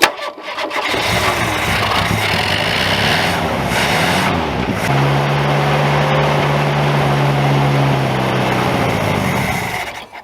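Ford Pinto engine catching and running at high revs with the throttle held open, holding a steady high note for several seconds before dying away near the end. It runs only on plenty of throttle and will not idle, with its carburettor's accelerator pump stuck.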